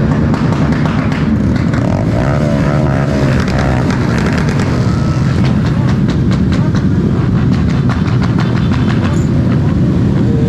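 Small-displacement mini-bike and scooter engines running together, a steady low drone with many sharp ticks and one engine's pitch wavering up and down a couple of seconds in.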